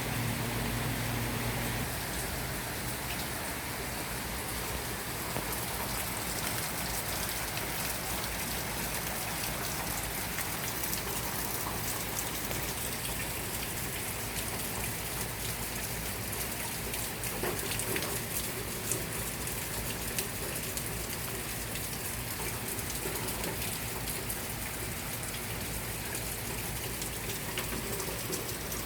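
Steady rain falling, with a low hum that stops about two seconds in.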